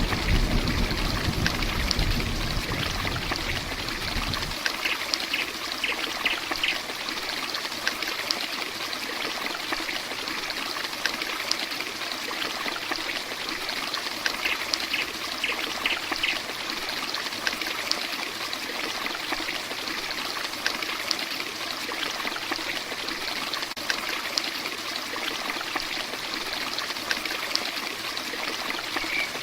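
Heavy rain falling steadily, an even hiss with countless tiny drop ticks and water trickling and running off. A low rumble dies away in the first four seconds or so, and two short runs of faint high chirps come about six and fifteen seconds in.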